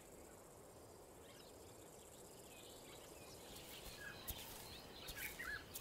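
Faint outdoor bush ambience, with soft, distant bird chirps coming in over the second half.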